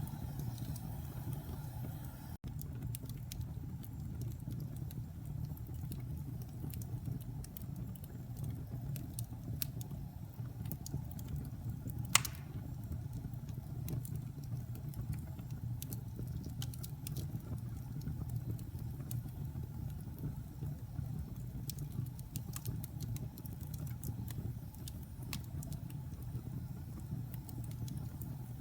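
Wood fire in a fireplace burning with a steady low rumble and scattered small crackles and snaps, with one sharper pop about twelve seconds in.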